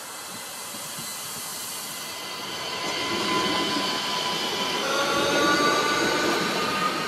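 Electric multiple-unit passenger train approaching and passing a level crossing. The rumble of wheels on rail grows steadily louder, and from about three seconds in several high, steady whining tones join it as the cars go by.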